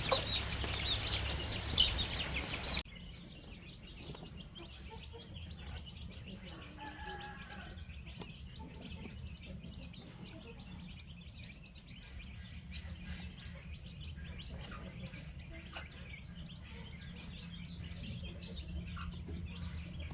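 Baby chicks peeping in a dense, loud chorus of high chirps. About three seconds in it cuts off abruptly to a much quieter background of faint, scattered chirps over a low rumble.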